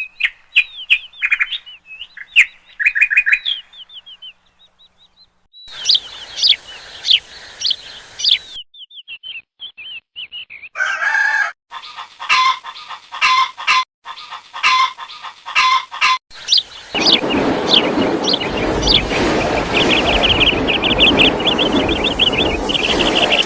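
Birds chirping and tweeting in quick, high calls, in a string of separate clips with abrupt cuts between them. In the last third a denser stretch of many birds chirping over a steady noisy background.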